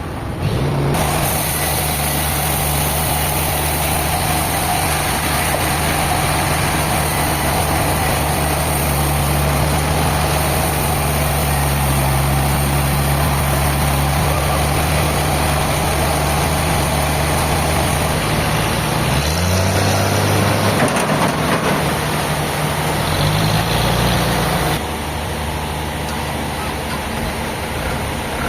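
A large engine running steadily under a layer of mechanical noise. Its pitch dips and rises a few times about two-thirds of the way through. Some of the noise drops away shortly before the end, leaving the engine running.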